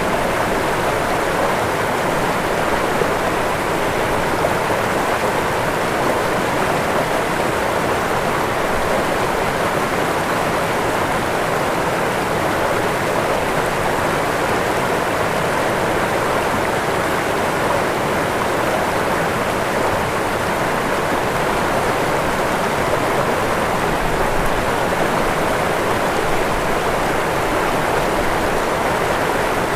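Waterfall: a steady, even rush of falling water, strongest in the middle range, with no breaks or separate splashes.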